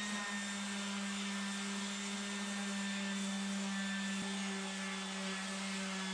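An electric motor running steadily at constant speed: an even low hum with a fainter higher tone and a hiss over it, with no change in load.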